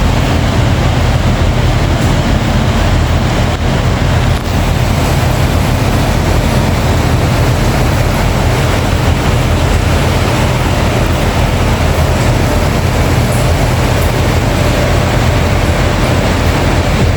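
Heavy rain pouring steadily, with a strong low rumble underneath.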